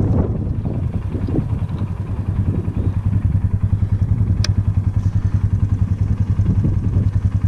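Polaris utility vehicle's engine running steadily with a low, rapidly pulsing drone. A single sharp click comes about four and a half seconds in.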